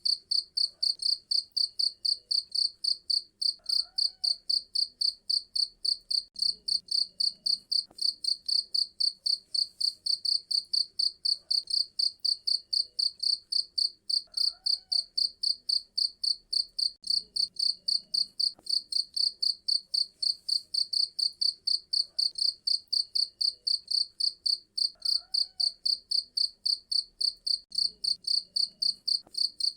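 A cricket chirping loudly and steadily, a fast even train of high chirps at about four to five a second.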